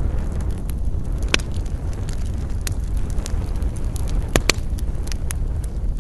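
Wood campfire crackling with frequent sharp pops, the loudest one about a second and a half in and a close pair of loud pops near the end, over a steady low rumble of wind.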